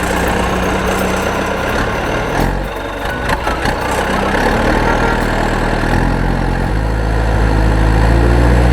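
A loud, steady engine rumble from a cartoon vehicle sound effect, its low hum shifting in pitch a few times in the second half.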